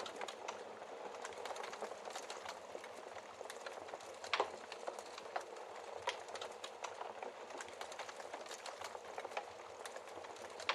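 Wood fire crackling steadily, with a constant hiss and frequent sharp pops and snaps; one louder snap about four seconds in.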